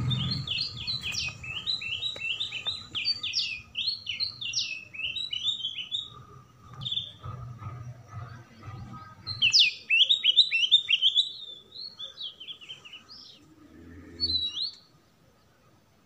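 A wild bird singing: fast runs of short, sharp chirps that each slide downward, one run in the first six seconds and another starting about halfway through, over a faint low rumble.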